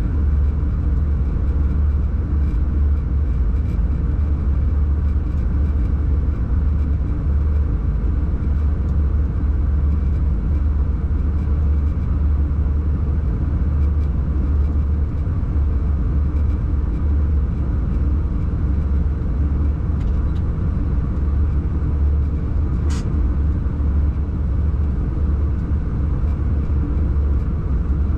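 Electric locomotive hauling a mail train at speed: a steady, deep rumble of running noise, with one short click late on.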